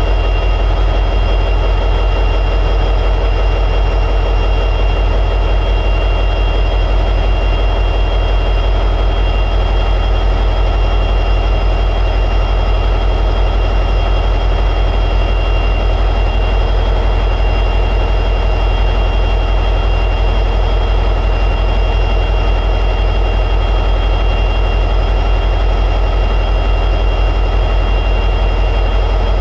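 EMD 710G3B sixteen-cylinder two-stroke diesel prime mover of an SD60E locomotive running at high idle, a loud steady drone with a constant low hum and a steady high whine.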